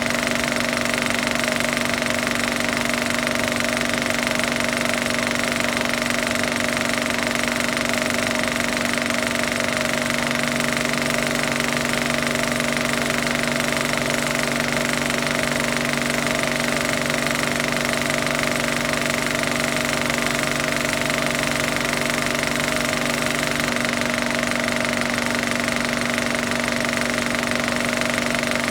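Film projector running: a steady mechanical clatter over a constant hum.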